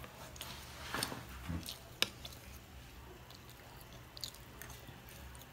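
A child chewing pancake, with a fork clicking and scraping on the plate as she cuts: a few short sharp clicks, the sharpest about two seconds in, over a low steady hum.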